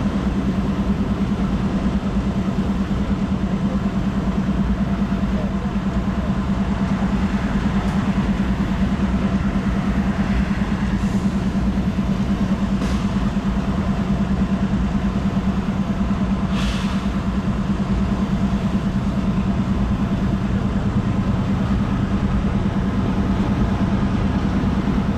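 A steady engine hum with one strong low drone and no change in speed. Three short, sharp high sounds cut through it, at about 11, 13 and 17 seconds in.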